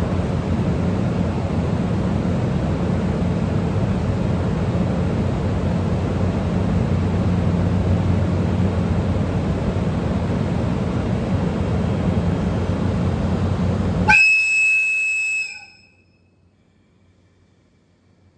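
A steady low hum and rushing noise from a standing train, then about fourteen seconds in one strong blast of the EF64 electric locomotive's air whistle, lasting about a second and a half, after which the sound drops away sharply.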